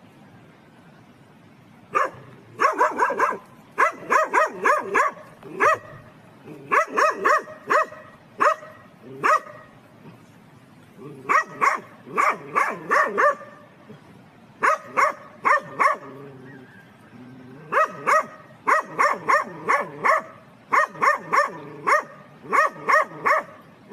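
A dog barking in quick bouts of three to six barks with short pauses between them, starting about two seconds in.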